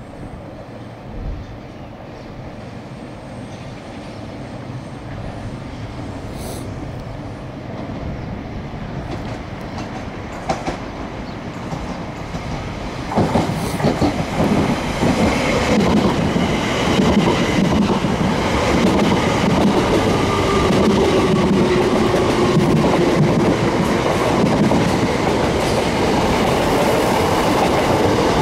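A train approaching and running past. Its noise builds gradually, then jumps louder about halfway through into a steady rush with a rapid clickety-clack of wheels over the rail joints.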